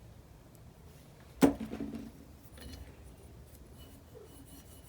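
A single sharp metallic clink about a second and a half in, ringing briefly, followed by a few faint handling clicks of small metal parts on a workbench.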